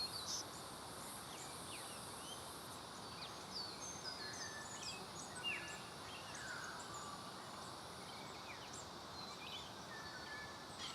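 Faint outdoor ambience of small birds: scattered short chirps and calls of several birds, over a steady high insect drone.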